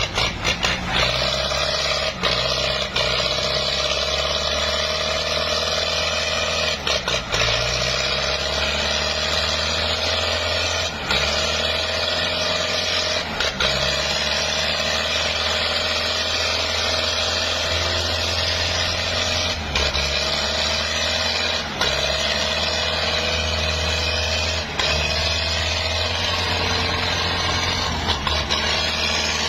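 Ford tractor engine running hard, its speed dipping and rising several times as it labours to pull the stuck tractor free.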